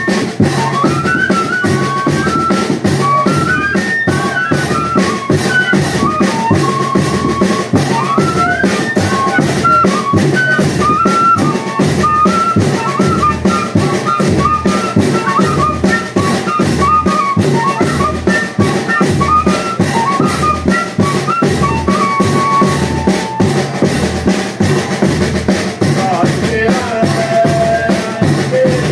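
Banda de pífano playing: a quick fife melody over a steady beat of bass drum and snare drum. The melody shifts to lower notes for the last few seconds.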